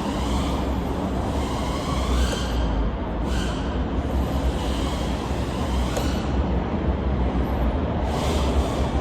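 Onboard audio of a 3.5-inch FPV quadcopter's four brushless motors (1405 size, 4800KV) and props, whining and surging in pitch as the throttle rises and falls every second or so, over a heavy low rumble.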